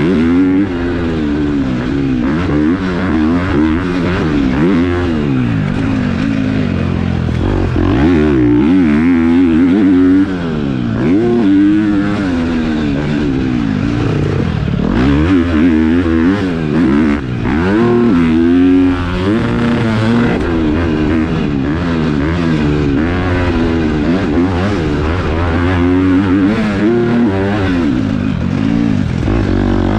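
KTM four-stroke motocross bike's engine being ridden hard, its pitch rising and falling over and over as the throttle is opened and closed and gears are changed.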